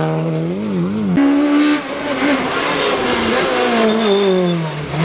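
Rally car engine at high revs, its pitch wavering briefly about a second in, then jumping up and falling slowly over the next few seconds.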